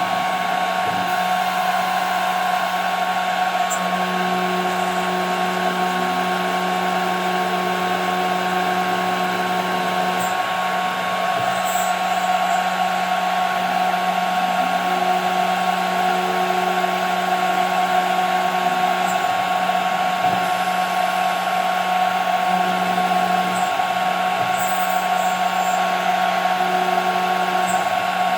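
CNC router spindle running with a steady high whine over a hiss while milling 5 mm plexiglass. A lower hum comes and goes every few seconds.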